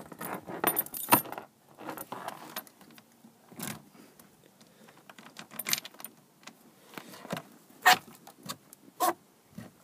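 Small metal parts being handled: irregular light metallic clicks and rattles, a few sharper clicks among them, with no engine running.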